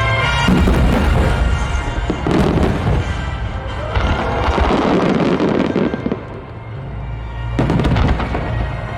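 Aerial fireworks shells bursting overhead, several deep booms with crackle a second or two apart, over music.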